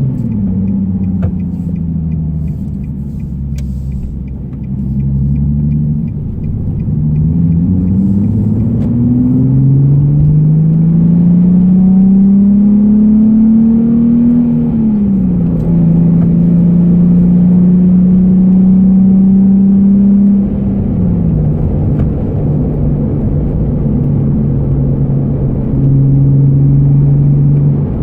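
Nissan Fairlady Z (Z34) 3.7-litre V6 with a be free aftermarket muffler, heard from inside the cabin while driven gently through a six-speed manual. The engine note climbs under acceleration for several seconds and falls sharply at an upshift about halfway through. It holds steady, falls again at a second shift about three-quarters through, and settles to a steady cruise.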